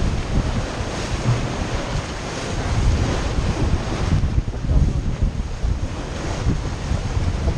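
Wind buffeting the microphone in irregular gusts over a steady wash of water around a yacht.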